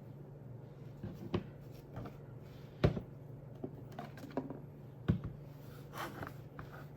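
A handful of light knocks and clicks from small hard objects being handled, the loudest just before halfway, over a steady low hum.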